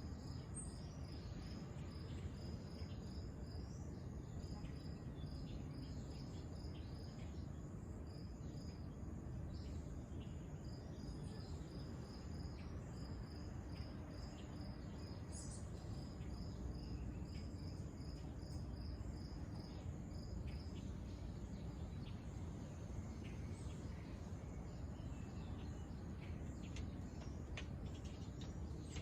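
Insect chirping: a steady run of evenly spaced high chirps, about two or three a second, that stops about two-thirds of the way through, followed by scattered short chirps. A steady low rumble runs underneath.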